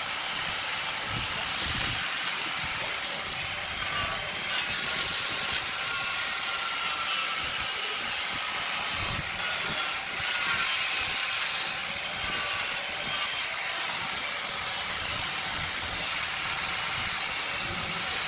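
Wood lathe at work on a burl log: a steady hiss with a faint wavering whine underneath.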